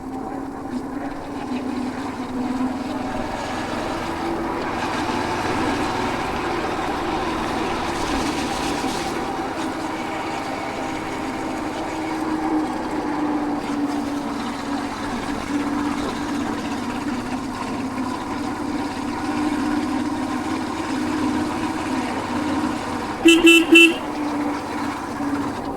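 Royal Enfield Hunter 350's single-cylinder engine running steadily under way. Near the end the horn gives two short toots.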